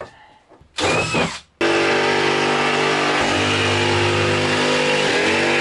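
Handheld power tool cutting a rough opening in a cabinet panel: a short blip of the motor about a second in, then steady running at full speed, its pitch dipping briefly under load near the end.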